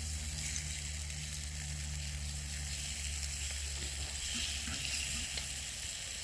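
Beef steaks sizzling in a frying pan, a steady hiss. A low hum underneath fades out a little past halfway.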